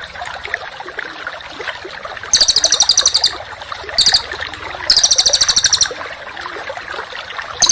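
Small songbird giving very rapid, high, buzzing trills in bursts: two of about a second, one short one between them, and another starting at the very end. Under them runs a steady background of many lower, scattered bird chirps.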